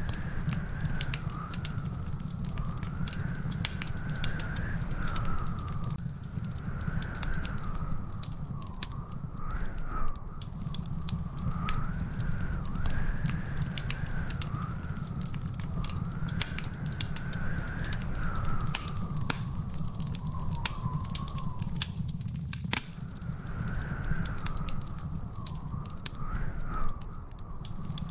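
Wood fire crackling in a fireplace: many sharp pops and snaps over a steady low rumble. Through it runs a continuous whistling tone that wavers slowly up and down in pitch.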